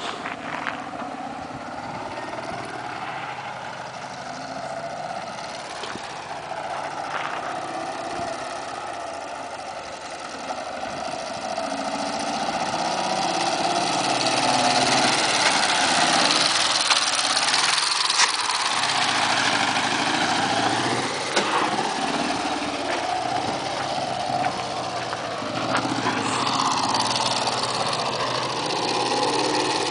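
Ural motorcycle's flat-twin engine running and revving, its pitch rising and falling repeatedly; it grows louder past the middle, eases off briefly, then picks up again near the end.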